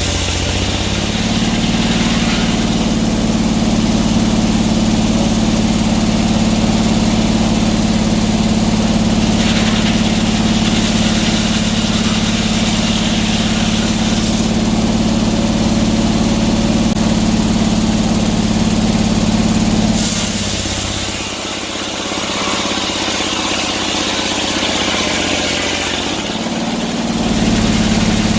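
Sawmill engine running at a steady high speed, dropping back for several seconds about two-thirds of the way through, then speeding up again near the end.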